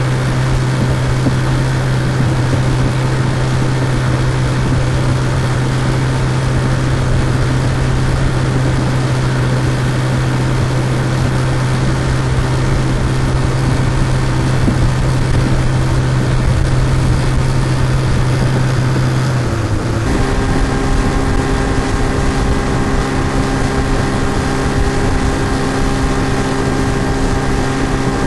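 Looped outboard motor sound effect: a steady engine drone at cruising speed. About twenty seconds in the engine's tone changes abruptly, a deep hum giving way to higher steady tones where the loop switches.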